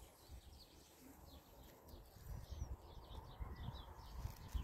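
Faint chirping of small birds, many short high chirps, over a low rumble that grows louder about halfway through.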